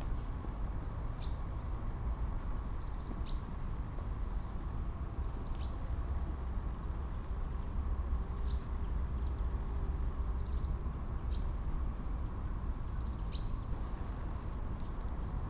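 A small bird calling over and over, one short high note that slides down and settles, about every two seconds, over a steady low rumble of outdoor background noise.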